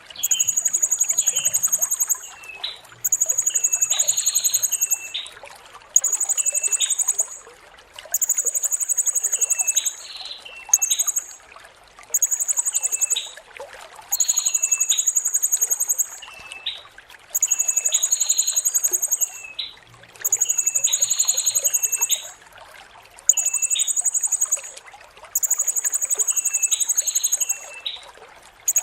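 Blue-crowned hanging parrot (serindit) singing: a rapid, very high-pitched trill in bursts of one to two seconds, repeated about every two seconds, with short lower chirps between the bursts.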